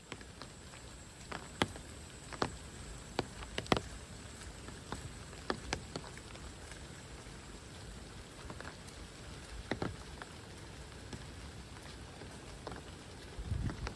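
Steady rain with scattered, irregular sharp taps of single large drops landing close by, and a low thump near the end.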